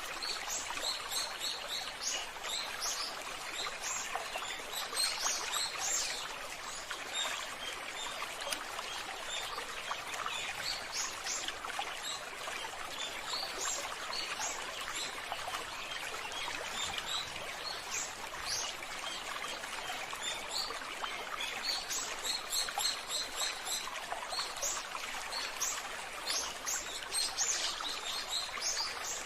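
Running water makes a steady rush, with many small birds chirping over it in quick, high notes.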